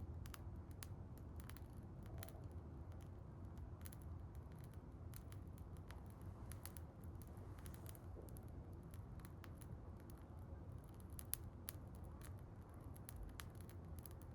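Wood bonfire crackling: irregular sharp pops and snaps scattered over a low, steady rumble of the burning fire.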